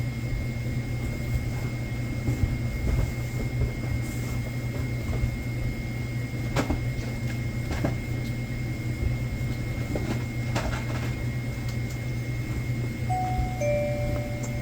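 Convenience store stockroom noise: a steady electrical hum with a faint high whine underneath, and scattered knocks and clatters of boxes and goods being handled and put away. Near the end a few held electronic tones begin.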